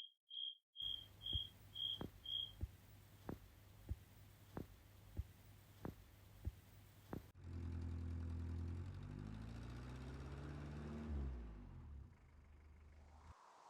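Outdoor evening ambience. A cricket chirps steadily about three times a second for the first couple of seconds over a low hum, with soft regular ticks about every half second or so. From about halfway a louder low engine rumble sets in, then drops in pitch and fades near the end, as a vehicle passes.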